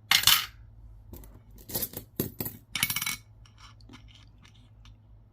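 Metal coins clinking against each other and against a hard surface as they are picked up and set down: a sharp clink at the start, then a quick run of clinks and scrapes between about one and a half and three seconds in.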